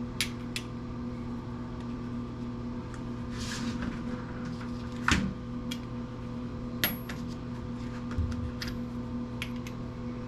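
Scattered light metallic clinks and knocks from hand tools and metal parts being handled while a power planer is stripped; the sharpest knock comes about five seconds in. A steady low electrical hum runs underneath.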